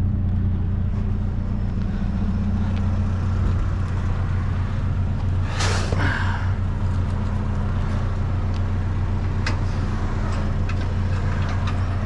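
Vehicle engine idling steadily, with one loud scraping clatter about halfway through and a few light knocks near the end.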